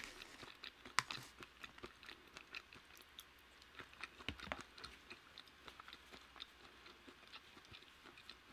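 Close-miked chewing of a mouthful of food: faint, irregular soft clicks and smacks from the mouth.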